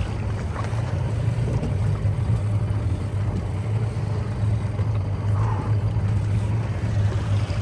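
Fishing boat's motor running steadily, a low even hum.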